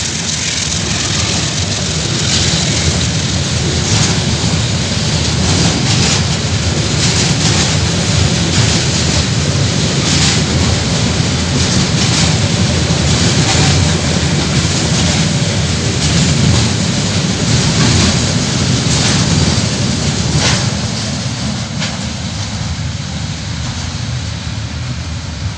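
A diesel-hauled freight train passing close by, mostly a long string of freight wagons rolling past. It makes a steady heavy rumble with scattered sharp wheel clicks, and the sound fades over the last few seconds as the train draws away.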